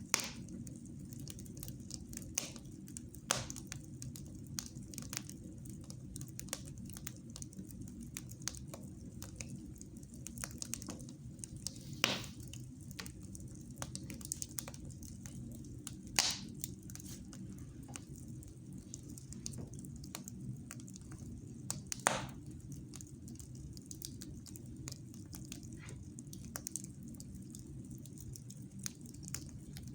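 Wood fire in a fireplace crackling, with many small snaps and about five louder pops spread through, over a low steady background noise.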